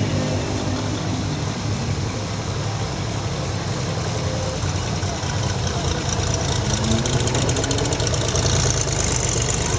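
Car engines idling and running, a low steady rumble. About seven seconds in, a nearby engine gets louder and rises in pitch, with a rapid exhaust pulse.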